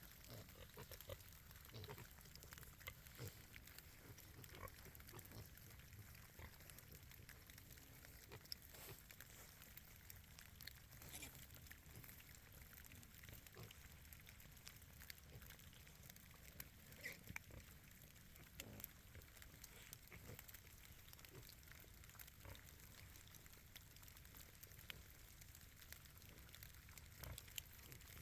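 Pigs grunting faintly, with scattered small irregular clicks and knocks.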